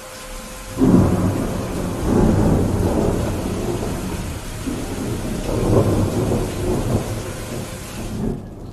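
Steady rain with a long roll of thunder that breaks in suddenly about a second in, rumbling and swelling several times before dying away near the end.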